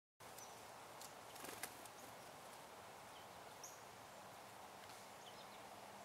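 Near-silent woodland ambience with a steady faint hiss, a few faint short high bird chirps scattered through it, and a few soft clicks about a second and a half in.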